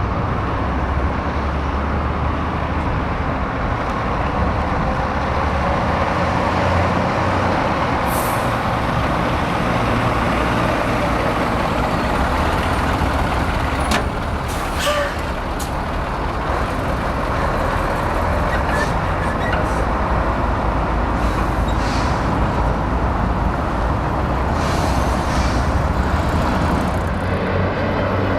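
Heavy diesel trucks running close by with a steady low engine drone, and a handful of short air-brake hisses spread through.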